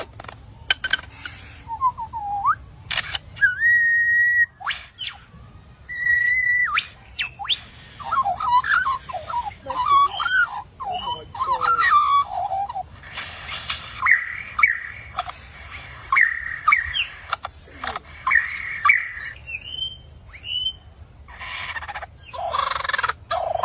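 Birds calling: a busy mix of chirps, clicks and gliding whistles, with two held whistled notes early on and bouts of harsher chattering calls later.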